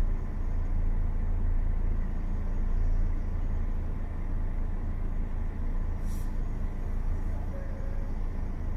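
Steady low rumble inside a car's cabin, its engine idling while the car is stopped at a traffic light. A brief hiss comes in about six seconds in.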